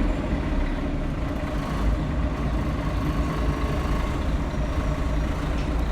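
Scania L113CRL bus's diesel engine running steadily, heard from inside the cabin as a loud, even low drone.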